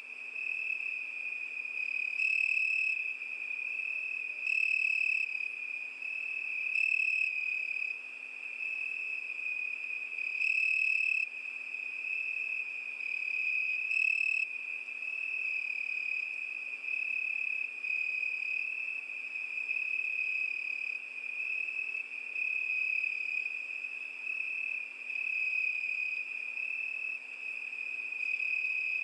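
Crickets chirping in a steady high trill, swelling louder about five or six times in the first half.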